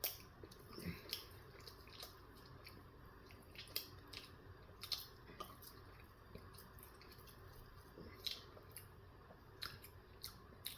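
A person chewing a steak, egg and cheese bagel sandwich close to the microphone: faint, irregular wet mouth clicks and smacks scattered across the stretch.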